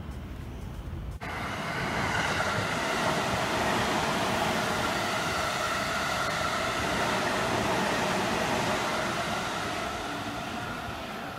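After a second of low street rumble, a passenger train passes close by on the station tracks. Its wheels and cars make a dense rushing noise with a steady whine running through it. The noise starts abruptly about a second in, holds loud for several seconds, then fades as the last car clears.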